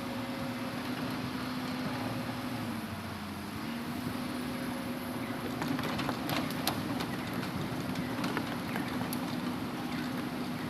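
Hitachi Zaxis 200-5G excavator's diesel engine running steadily under working load, its pitch sagging briefly about three seconds in and then picking up again. A string of sharp knocks comes about six to seven seconds in.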